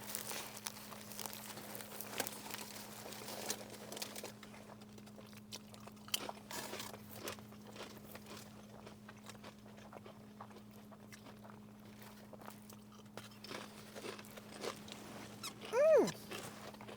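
Mouth-close eating: chewing and crunching food in a run of small clicks and crunches, over a steady low hum. Near the end a short falling voiced sound, like a brief "mm".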